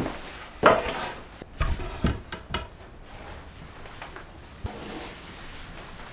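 Several short wooden knocks and clatters of things being handled, bunched in the first three seconds, then quieter handling.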